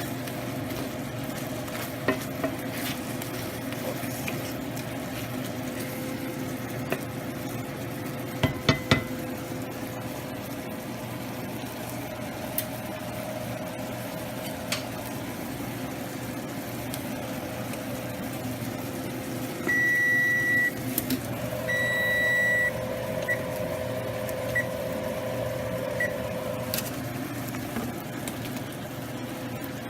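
Kitchen with a steady fan hum, a quick clatter of pans or utensils about nine seconds in, then an appliance beeping: two long beeps around twenty seconds in, followed by a few short ones.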